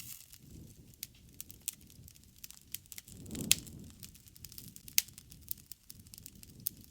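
A wood bonfire crackling, with irregular sharp pops and snaps over a low rumble. Two loud snaps stand out, one about halfway through, over a brief low rushing swell, and another a second and a half later.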